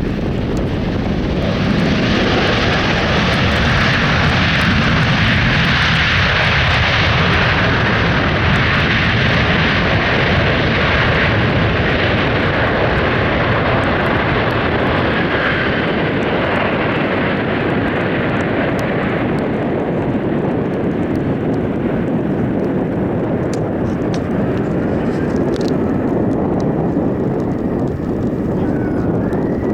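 Airliner's jet engines running loud and steady. The higher, hissing part of the sound dies away about two-thirds of the way through, leaving a low rumble.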